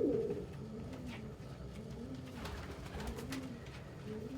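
Domestic pigeons cooing: a low coo repeated over and over, each one rising and falling, with a few faint ticks.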